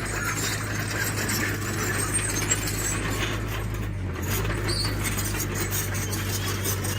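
Diesel engine of a heavy earthmoving machine running steadily, with scattered metallic clicks and rattles over it; the engine note dips briefly about four seconds in.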